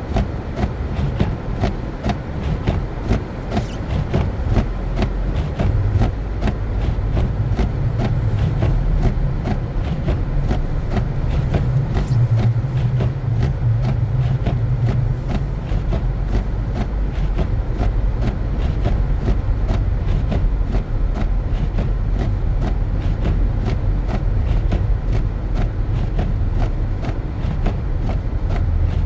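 A car driving on snow-covered streets: a steady low rumble of engine and road noise, with a quick run of regular clicks and ticks on top.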